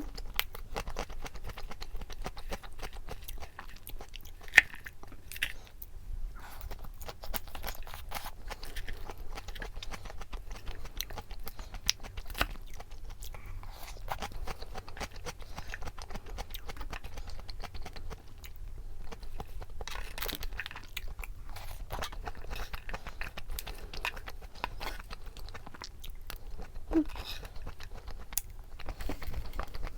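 A person chewing and crunching food, with irregular crackles and an occasional sharper click.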